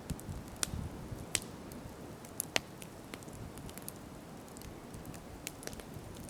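Wood campfire crackling, with irregular sharp pops over a low steady rumble; the loudest pop comes about two and a half seconds in.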